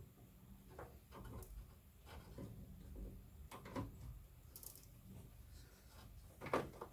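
Faint handling noises of PC power cables and connectors: a scatter of small plastic clicks and light knocks as cables are routed and fitted inside the computer case.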